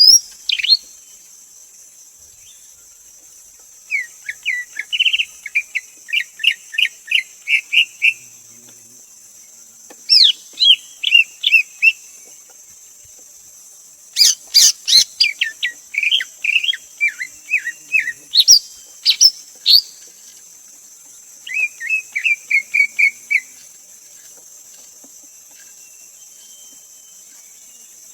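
Greater green leafbird singing: four bouts of quick, sliding whistled notes separated by pauses of a couple of seconds. A steady high-pitched hiss runs underneath.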